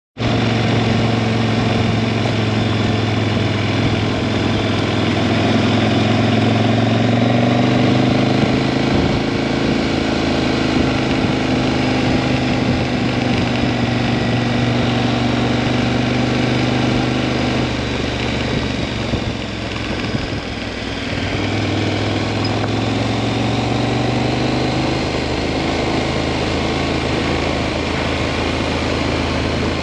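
Adventure motorcycle engine running while riding a gravel road, with steady road and wind noise. The engine note climbs slightly in the first quarter, drops and quietens for a moment about two-thirds of the way through, then picks up again.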